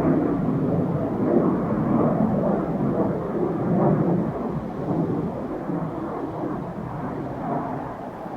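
Saab Draken jet fighter's engine heard in flight: a low, uneven rumble that slowly fades, echoing off the chalk cliffs.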